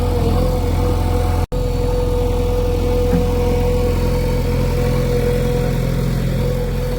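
Heavy machinery's diesel engine running steadily at low revs, with a steady high tone over it. The sound cuts out for an instant about a second and a half in.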